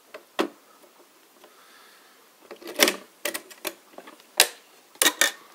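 Sharp clicks and clacks of an LGA 1150 CPU socket being closed over the processor: the metal load plate and retention lever pressed down into place. A few light clicks at first, then a run of louder clacks from about two and a half seconds in, the loudest near four and a half seconds.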